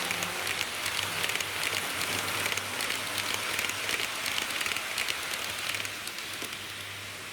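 HO gauge model diesel railcar running on track: a dense, rapid patter of wheels clicking on the rails over a low steady hum, dropping off somewhat about six seconds in.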